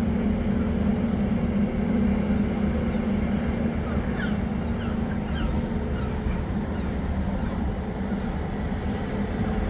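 Steady low drone of a large road or rail vehicle running, with a constant hum.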